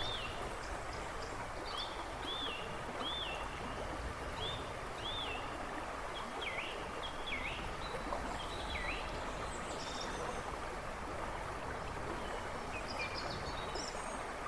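A river rushing and babbling steadily. Over it a woodland bird sings a run of short, repeated whistled notes, which change about halfway through to a few down-swooping whistles, with faint higher chirps near the end.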